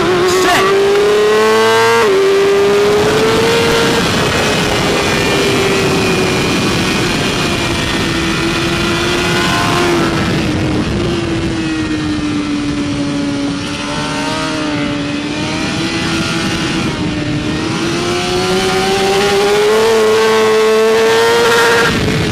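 BMW S1000RR's inline-four engine at racing revs, heard from on board over wind rush. It climbs hard, drops sharply at an upshift about two seconds in, eases and wavers through a corner in the middle, then climbs again toward the end.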